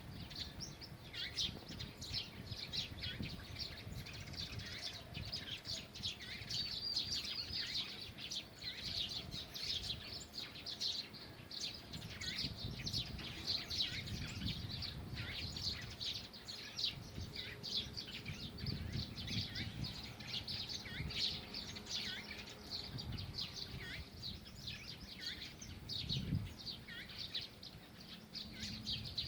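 Many small birds chirping and singing in a forest, dense overlapping high calls throughout, over a low rumble of background noise.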